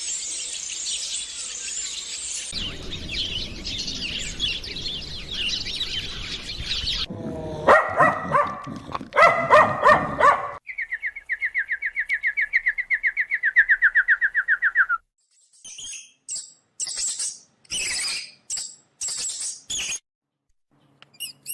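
A string of different bird calls: first a dense chorus of high chirping, then a few lower calls, then a fast, even trill lasting about four seconds, then sharp separate chirps with short silences between them.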